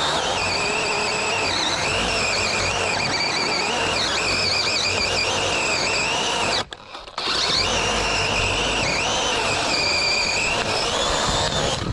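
Chainsaw running at full throttle while cutting through a black cherry trunk, its high whine dipping in pitch as the chain bogs under load and recovering again. The sound cuts out abruptly for about half a second a little past the middle, then the saw carries on.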